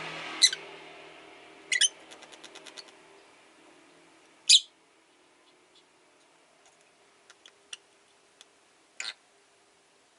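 Rosy-faced lovebird giving short, sharp, high chirps: one about half a second in, a double call near two seconds, the loudest at about four and a half seconds, and a softer one near nine seconds. A passing car fades away over the first couple of seconds.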